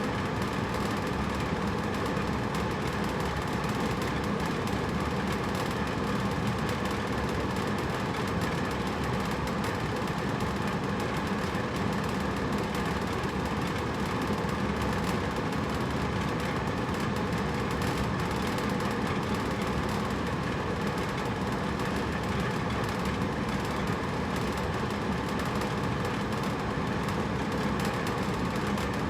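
Hotel room air conditioner running steadily: an even whooshing hum from the fan with a faint steady drone.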